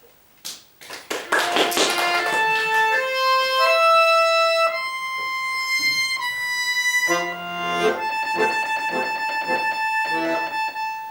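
Bayan (Russian button accordion) playing solo. After a brief pause, a fast run of notes leads into a slow melody of held notes, then chords pulse about three times a second under a long-held high note, which dies away near the end.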